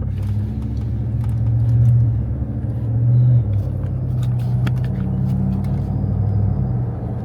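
Truck engine running while driving, a steady low drone that swells a little a few seconds in, with a few faint clicks.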